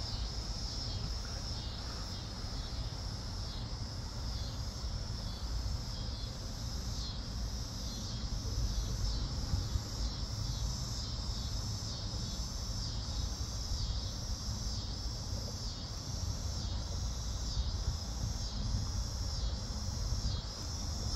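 A steady chorus of insects chirping, a high-pitched sound pulsing a little more than once a second, over a low steady rumble.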